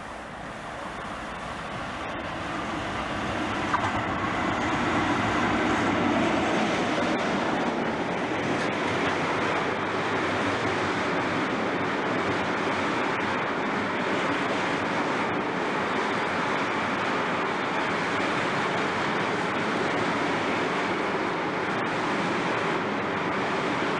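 Diesel-hauled freight train of hopper wagons approaching and passing close by: the sound grows louder over the first few seconds as the locomotive nears, then settles into the steady, even rolling noise of the wagons' wheels on the rails.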